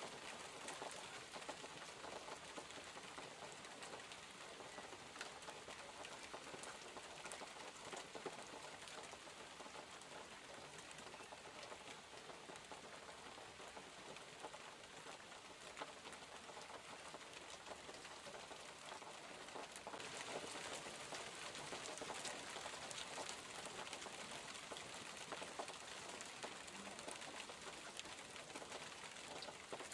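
Steady rain falling, with many fine individual drops ticking through the hiss; it grows a little louder about two-thirds of the way in.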